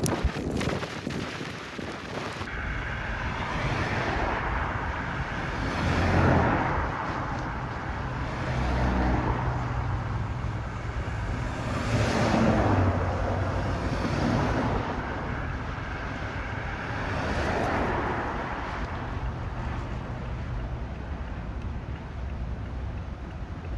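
Strong wind buffeting the microphone with a steady low rumble, and swells of rushing noise that build and fade every few seconds.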